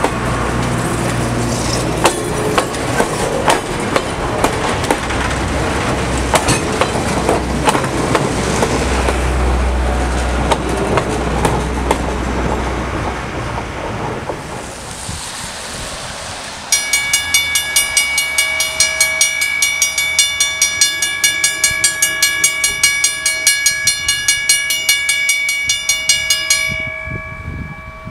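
Railroad passenger cars rolling past close by, their wheels clicking over the rail joints, the sound fading as the train moves away. Past the middle, a grade-crossing warning bell starts suddenly, ringing in rapid, even strokes, and stops shortly before the end.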